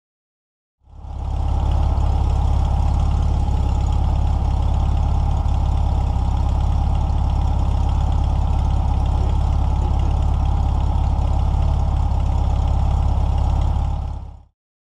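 Air-cooled VW 1600 flat-four engine with a Solex carburettor idling steadily. It comes in about a second in, holds an even, unchanging idle, and fades out near the end.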